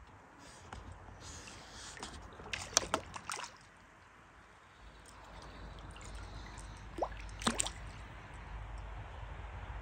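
Light water drips and small splashes on a calm river, in two short clusters about three seconds and seven seconds in, over a low steady rumble.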